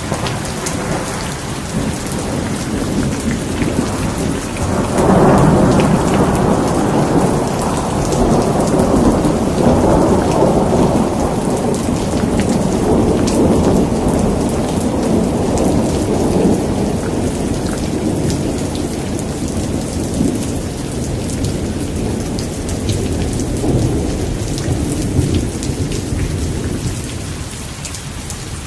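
Thunderstorm: steady rain falling with patters of drops, and a long rolling rumble of thunder that builds about five seconds in and slowly fades away over the next twenty seconds.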